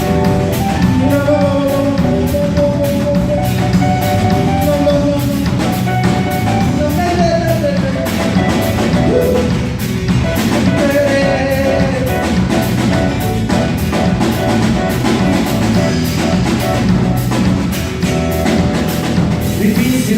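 Live band playing a reggae arrangement: drum kit keeping a steady beat under bass and sustained pitched instruments carrying the melody.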